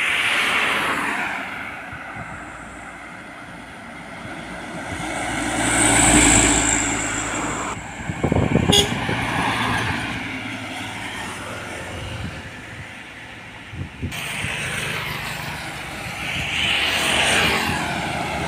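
Trucks and road traffic passing close by, their engine and tyre noise swelling and fading as each goes past. One passes about six seconds in and another near the end, with a few short sharp knocks around eight seconds in.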